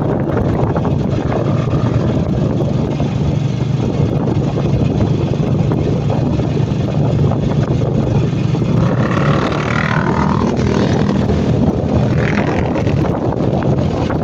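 Motorcycle engine running steadily while riding, with wind buffeting the microphone. A brief wavering higher-pitched sound comes in about nine seconds in, and another shorter one near the end.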